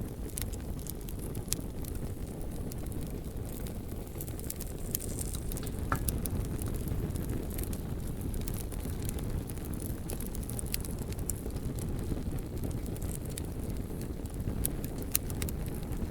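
Bonfire of burning logs: a steady low rumble of flames with scattered sharp crackles and pops.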